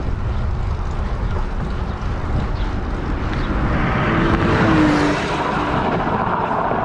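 Steady road and engine noise of a car driving in traffic. It grows louder about four seconds in, then eases back.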